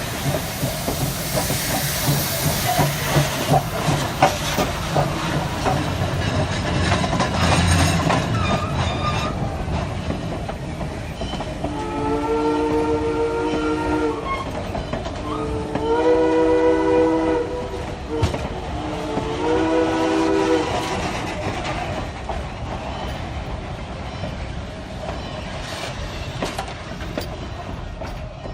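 Steam locomotive with a loud rush of noise and clanking, then three blasts on its steam whistle, each one to two seconds long, sounding several notes together.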